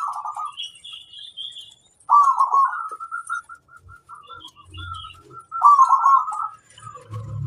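Zebra dove (perkutut) cooing its staccato rolling song in three phrases, with short single coos between them, and fainter high chirps above.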